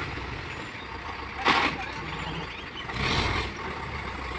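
Diesel engines of heavy earthmoving machinery running steadily. A short sharp hiss comes about a second and a half in, and a longer noisy burst about three seconds in.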